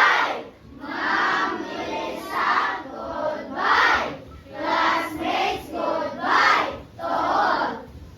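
A class of children singing or chanting together in unison, in short phrases of about a second each with brief breaks between them.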